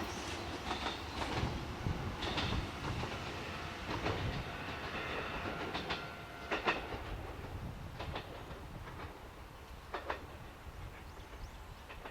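Train running along the track, its wheels clicking over rail joints at irregular intervals, fading as it moves away.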